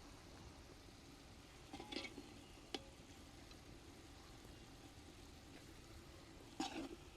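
Near silence with a faint steady background, broken by three brief knocks or clicks: about two seconds in, a sharp one just under three seconds in, and the loudest near the end.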